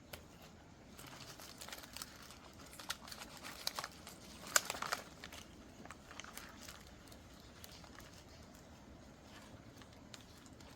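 Paper being handled and shuffled, crinkling with small taps and rustles. It is busiest in the first half, with the loudest rustle about four and a half seconds in, then quieter, over a faint steady hiss of rain.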